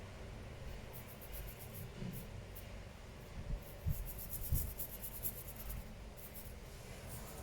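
Light, intermittent scratching and rubbing with a few soft knocks, from hands working on a laptop's internals.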